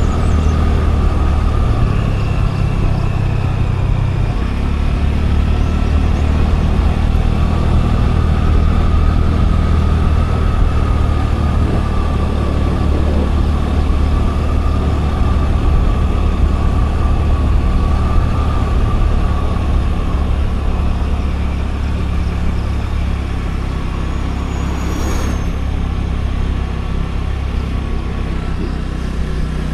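Scooter engine running steadily under way, a low drone with a wavering higher whine over road noise. About 25 seconds in there is a short high squeak.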